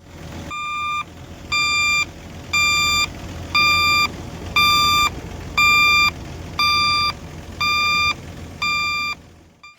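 Reversing alarm on a motor grader, beeping nine times at about one beep a second over the steady low rumble of its diesel engine.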